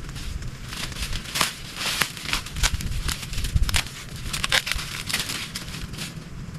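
Dry plant matter crackling and snapping in an irregular run of sharp cracks, densest from about a second to five seconds in, with a low rumble underneath.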